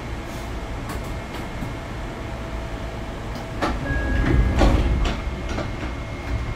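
Steady hum of a Sotetsu 8000 series electric train car at rest, with two thin steady tones. About three and a half seconds in, a louder rumble with a run of sharp knocks swells and fades over roughly two seconds.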